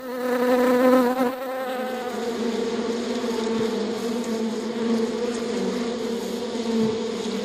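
Honeybees buzzing in a steady drone.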